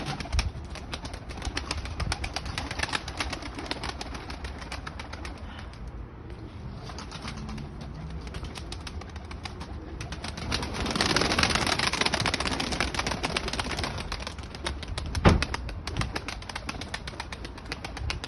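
Pigeons in a coop, their wings flapping and fluttering, with a louder stretch of flapping about eleven seconds in and a single sharp knock a few seconds later.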